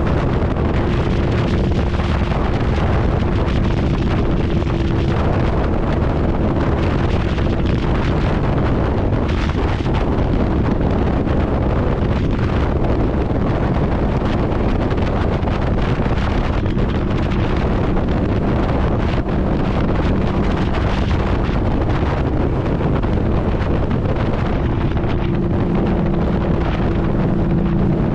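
Motorcycle riding at a steady speed: the engine drones steadily under constant wind rush on the microphone, its tone clearer near the start and near the end.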